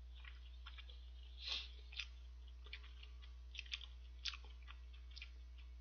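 Chewing of soft boiled dumplings close to the microphone: faint wet mouth clicks and lip smacks, the loudest about one and a half seconds in, over a steady low hum.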